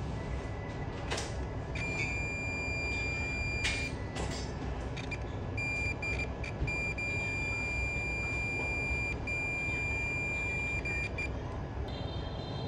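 An electronic beeper sounding a steady high beep in stretches: a short one a couple of seconds in, then broken beeps that settle into a long unbroken tone for several seconds, stopping shortly before the end. A constant low hiss and hum from the workbench runs underneath.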